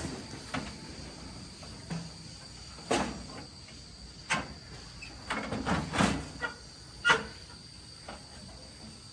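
Scattered short, sharp clicks and knocks, about half a dozen, the loudest around the middle, over a faint steady hiss.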